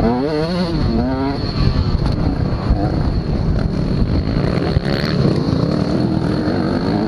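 Motocross bike engines revving, their pitch climbing and dropping again and again as the throttle is opened and shut through gear changes; the nearest bike is loudest in the first second or so.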